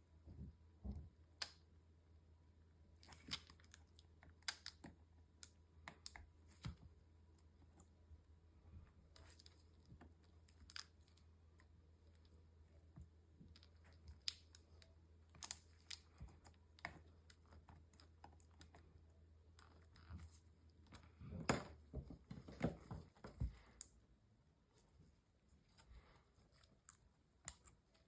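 Scattered light clicks and taps of hands working on a MacBook Pro, with a denser run of clicks about three-quarters of the way through, over a faint low hum.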